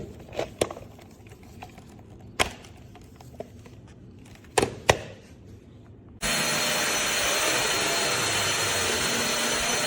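Several sharp plastic clicks and knocks as the cordless stick vacuum is handled. About six seconds in, its motor switches on and runs with a steady whirring hiss.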